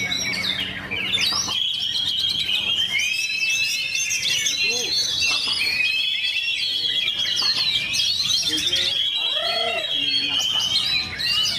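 Oriental magpie-robin (kacer) singing continuously: a rapid, unbroken run of high whistles, trills and chattering phrases.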